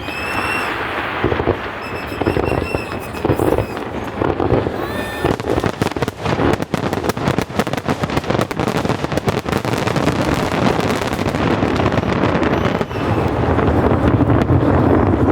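Aerial fireworks bursting in quick succession, the bangs and crackles thickest through the middle, with a few short whistles near the start over a steady rumble.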